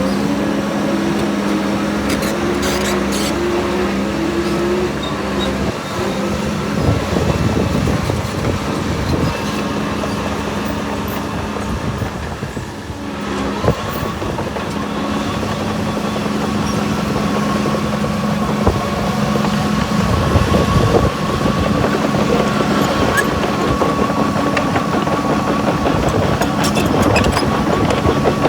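Diesel engines of heavy earthmoving machinery running steadily, with a high whine that comes in about halfway through.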